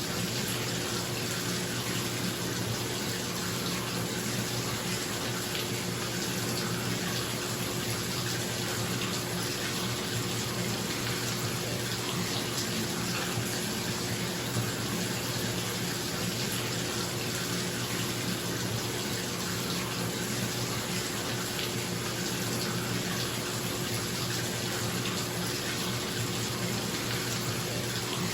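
Bathtub tap running, water pouring steadily into the tub, with a bathroom exhaust fan humming underneath. The sound is unchanging throughout.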